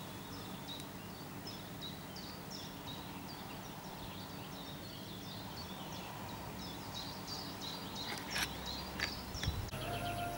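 Small birds chirping and twittering in many short, quick notes, with a few sharp clicks near the end.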